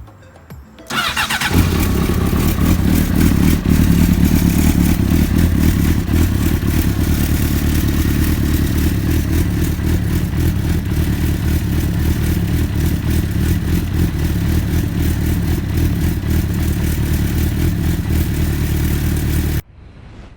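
Honda CBR600RR inline-four engine cranked on the starter and catching about a second in, then running steadily until it cuts off suddenly near the end. It is starting on its newly replaced fuel pump.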